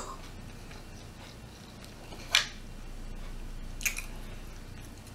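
Close-miked eating sounds: two short, crisp bites or chews on firecracker shrimp, about a second and a half apart.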